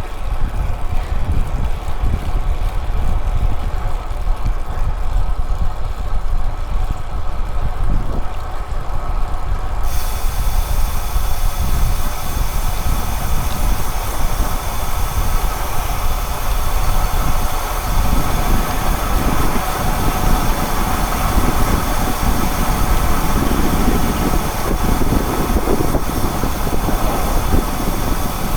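Wind buffeting the microphone over steady road noise while moving, with a steady high hiss that comes in suddenly about ten seconds in.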